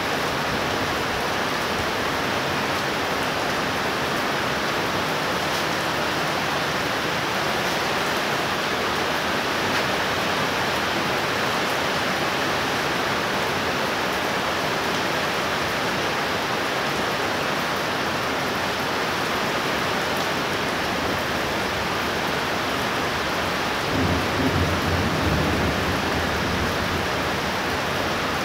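Heavy rain falling steadily in a downpour, with a brief low rumble of thunder near the end.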